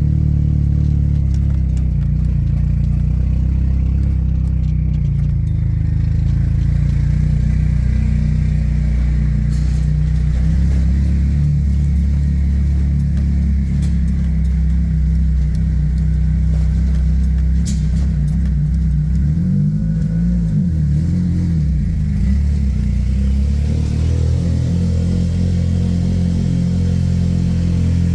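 Car engine running at low revs while the car is driven slowly, a steady low drone that wavers briefly about twenty seconds in.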